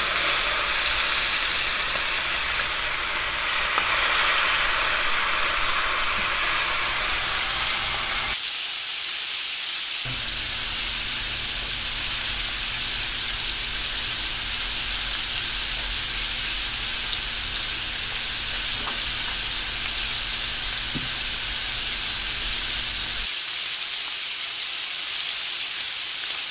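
Chicken thighs sizzling skin side down in hot oil in a stainless steel skillet, a steady frying hiss. About eight seconds in it jumps to a louder, brighter sizzle that holds to the end.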